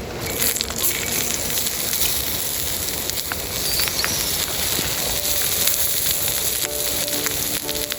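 Wood campfire crackling and hissing, with scattered sharp pops. Quiet background music comes in about five seconds in.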